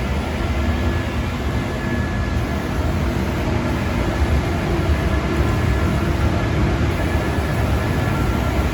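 Paint spray booth's extraction and air-handling fans running steadily: a constant rush of air over a low rumble, with a few faint steady tones.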